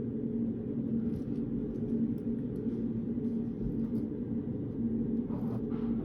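Steady low hum of a reading room's background noise, with one constant tone through it. Faint light taps come here and there, and a brief soft rustle comes near the end.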